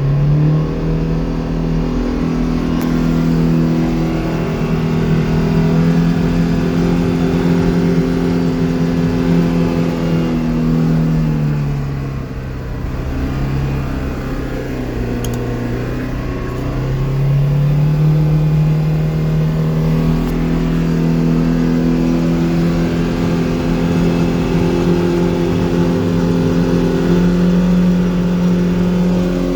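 2025 Polaris Xpedition NorthStar Ultimate side-by-side running under way, its engine note steady, then dropping as it slows about halfway through and climbing back as it speeds up again. Recorded to document a rattle that the owner is raising as a warranty complaint.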